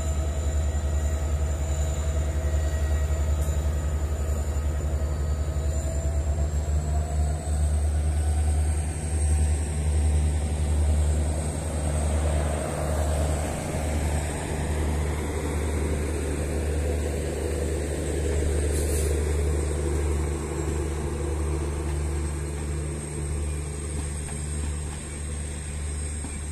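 Diesel-hauled passenger train passing: the locomotive's engine runs with a heavy rumble and a steady whine that rises slightly in pitch about seven seconds in, then the coaches roll by, the sound easing off toward the end.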